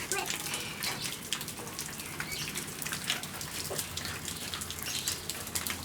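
Rain falling, with many separate drops hitting and splashing close to the microphone at an irregular rate.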